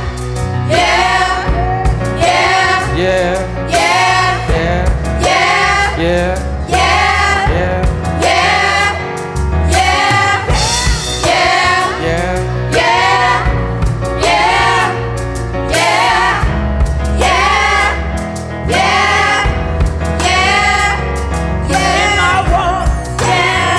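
Live gospel worship music: a choir and singers repeating short sung phrases over a band with a heavy bass line.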